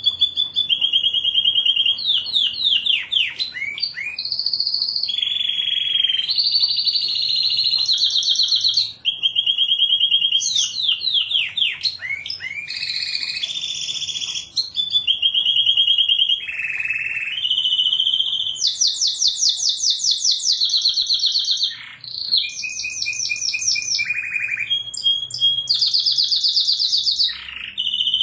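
Domestic canary singing a continuous song of fast trills and rolls, switching to a new repeated phrase every second or two, with sweeping notes between them.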